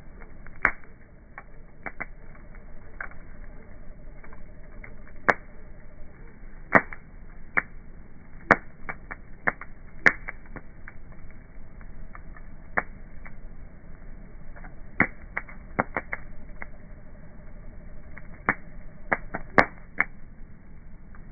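Wood bonfire burning and crackling, with irregular sharp pops and snaps, some much louder than others, over a low steady background rush.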